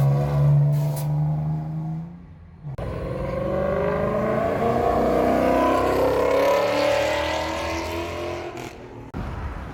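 A car engine running loudly at a steady pitch, cut off about two seconds in. A car then accelerates hard, its engine note climbing steadily for several seconds before fading.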